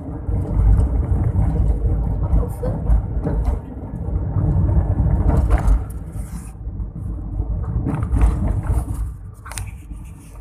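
A car driving along, its low road and engine rumble steady, with scattered knocks and scrapes over it.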